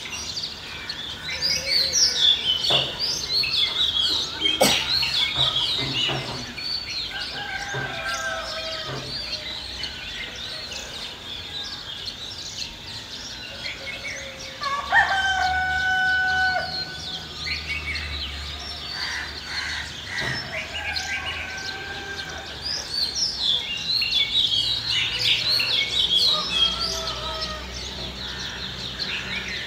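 Village ambience of small birds chirping busily, with a rooster crowing once about halfway through.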